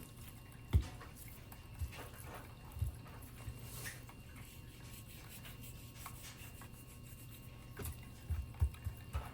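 Quiet room tone with a few scattered soft knocks, then a quick run of light knocks near the end, like objects being handled and set down.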